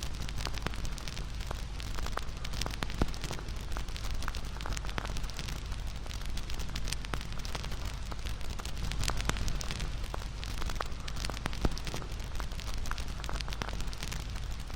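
Wood campfire burning: a steady low rush of flames with constant crackling and snapping, and two louder pops, about 3 s in and near 11.5 s.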